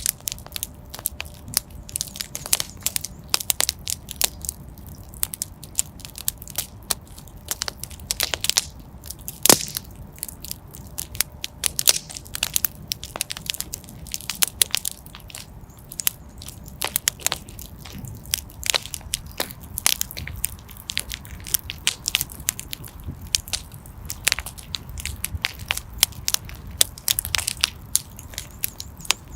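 Wood fire burning in a fireplace, crackling and popping irregularly, several sharp snaps a second at times, over a low steady rumble of the flames.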